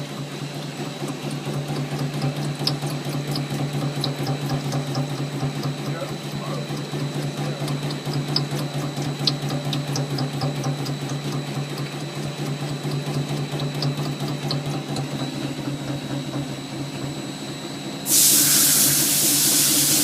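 Fellows 10-4 CNC gear shaper running: a steady machine hum with a faint high whine and light rapid ticking. About two seconds before the end a loud, steady hiss starts suddenly and drowns it out.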